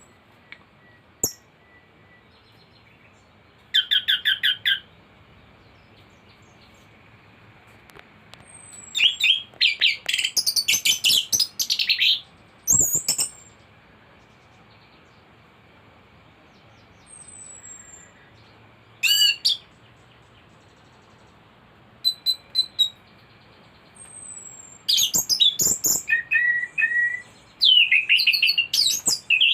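Anis thrush (Geokichla) singing loud, irregular bursts of fast, varied phrases, rattling trills and thin whistles, a full mimicry-laden song, over a faint steady high tone.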